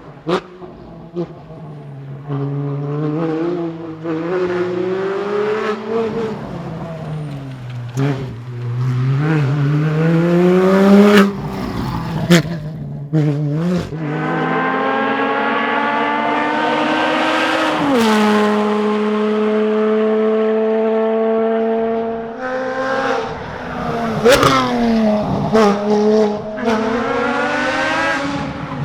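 Porsche Cayman GT4's naturally aspirated 3.8-litre flat-six driven hard on a rally stage, its pitch repeatedly rising under acceleration and falling with shifts and braking. A long climb in revs drops sharply about two-thirds of the way through, then the engine holds a steady note for a few seconds before revving up and down again.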